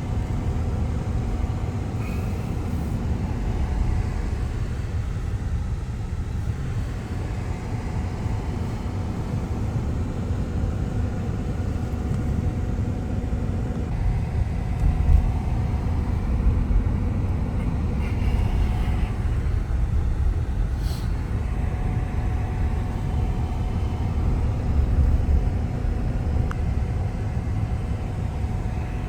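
A steady low rumble with a faint steady hum in it.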